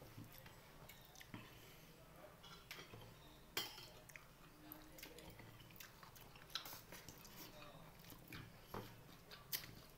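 Faint chewing and mouth sounds of a person eating rice and meat with his hands. A few sharp clicks stand out, the loudest about three and a half seconds in.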